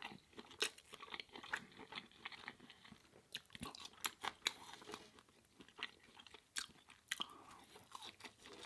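Close-miked chewing of a burger-and-fries meal: wet mouth clicks and crisp crunches come irregularly, several a second, at a low level.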